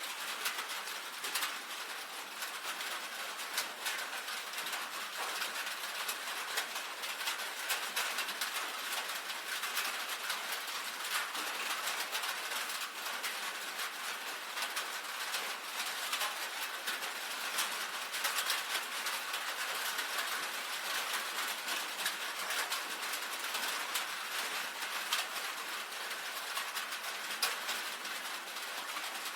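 Steady rain pattering on a tin roof: a dense stream of sharp drop ticks over an even hiss.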